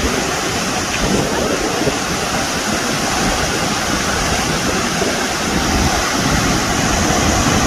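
Waterfall's loud, steady rush of falling water.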